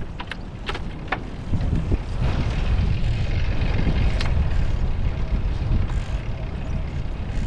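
Rumble of wind and tyres on a GoPro microphone while cycling, with a few sharp clicks and rattles near the start and another about four seconds in.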